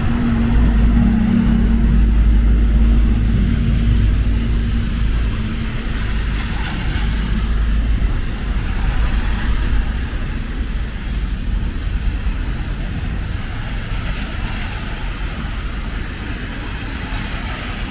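A motor vehicle's engine running close by, loud and low for the first few seconds, then fading into a steady hiss of traffic on a rainy street.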